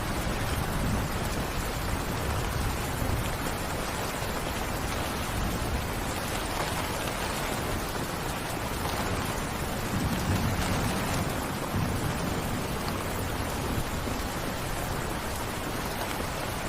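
Steady rain falling, a dense even hiss, with a low rumble swelling briefly about ten seconds in.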